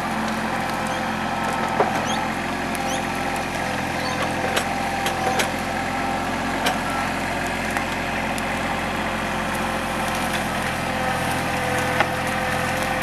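TYM compact tractor's diesel engine running steadily, with scattered sharp cracks and snaps of timber throughout; the loudest cracks come about two seconds in and near the end.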